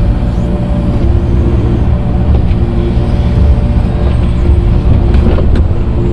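Tractor engine running steadily at working speed while grading dirt, with a couple of short clicks about five seconds in.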